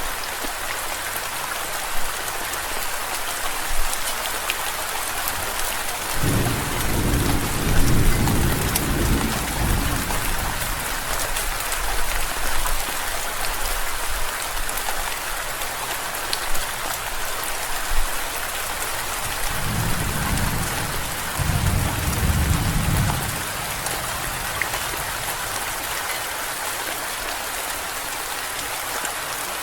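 Steady rain falling, with two low rolls of thunder: one about six seconds in lasting some four seconds, and a second, in two surges, about twenty seconds in.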